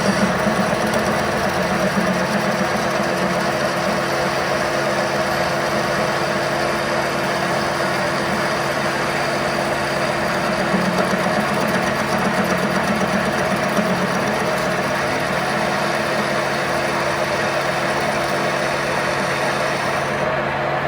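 A machine motor running steadily with an even hum.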